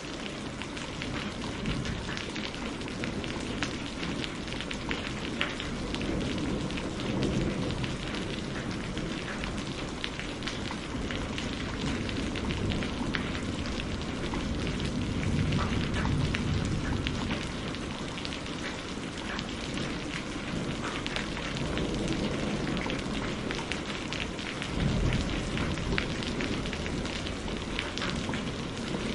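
Steady rain falling, a dense patter of drops on surfaces, with low rumbling that swells and fades several times, as of distant thunder.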